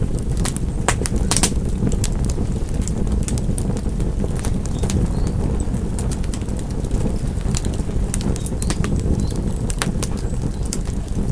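Wood fire crackling in a fireplace: a steady low rumble of burning with sharp, irregular pops, bunched in the first second and a half and again around ten seconds in.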